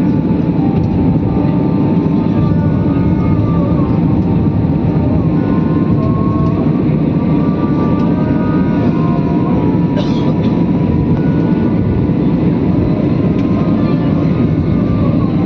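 Aeroplane engines running at takeoff power: a loud, steady rumble with a faint whine above it.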